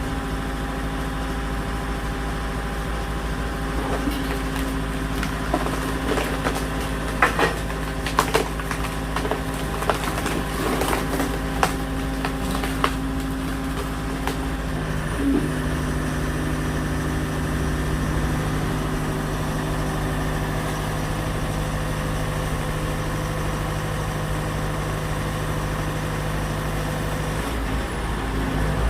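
Homemade hydraulic log splitter driving through a log: a run of sharp wood cracks and splintering over roughly ten seconds, over a steadily running engine. The engine's note shifts about halfway through, then runs on steadily.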